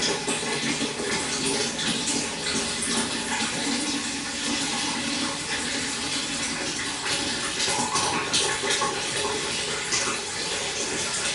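Pond water splashing and trickling steadily, a continuous run of small splashes.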